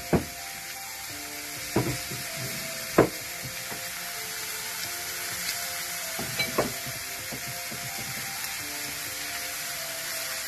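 Mango and dry fish curry frying in a saucepan with a steady sizzle. A few sharp knocks come about 2, 3 and 6.5 seconds in. Soft background music with held notes plays over it.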